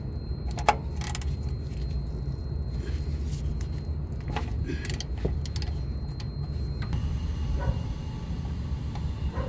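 Scattered metallic clicks and clinks of hand tools, a 17 mm socket and wrench at work on the car, over a steady low rumble. The sharpest click comes just under a second in.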